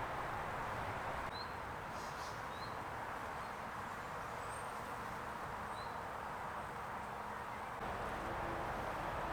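Honeybees buzzing around the entrance of a nucleus hive as they fly out on orientation flights, a steady hum. A few short bird chirps come over it in the first half.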